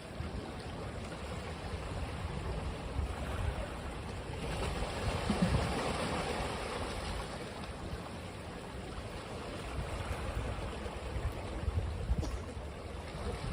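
Ocean waves washing onto a beach, a steady rush of surf with one wave swelling louder about five seconds in.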